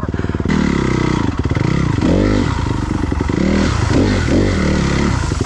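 Dirt bike engine revving up and down, its pitch rising and falling repeatedly as the bike works through deep mud. From about half a second in, a rushing, splashing noise runs under the engine.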